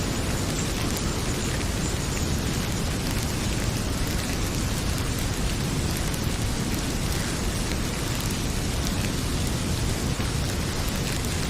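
Heavy rain pouring steadily, mixed with the crackle of a wood fire in a fireplace: a dense even hiss with a low rumble and many small pops and ticks.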